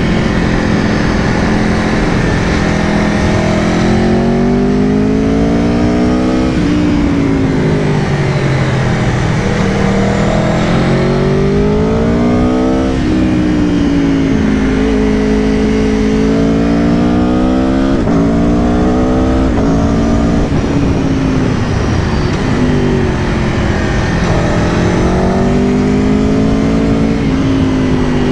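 2022 Aprilia Tuono V4 Factory's V4 engine heard while riding, revving up through the gears with the pitch rising and then dropping sharply at each shift, easing off and accelerating again several times, over a steady low rush of wind.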